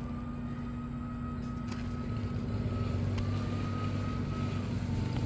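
Steady mechanical hum and low rumble that grows louder about two seconds in, with a thin steady whine above it.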